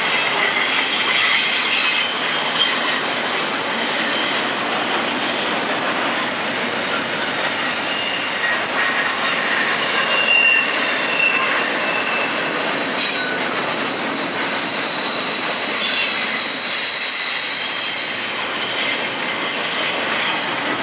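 Double-stack container train rolling past at close range: a steady noise of steel wheels on the rails, with high-pitched wheel squeals coming and going. The longest squeal comes about two thirds of the way through.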